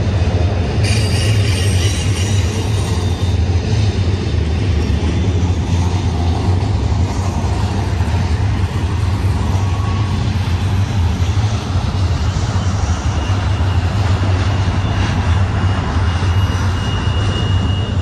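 BNSF double-stack container train's well cars rolling past: a steady, loud low rumble of steel wheels on rail, with faint high-pitched wheel squeal now and then.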